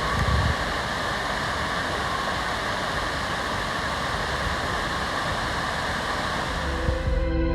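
Steady rushing of a waterfall. Near the end the water sound cuts off and music comes in.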